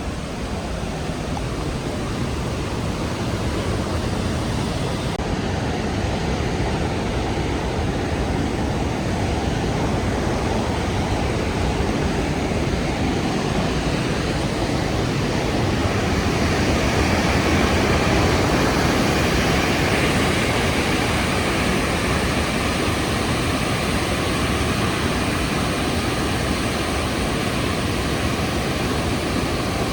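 Rhine Falls' cascading water making a steady, loud rush that grows gradually louder and brighter toward the middle and then holds.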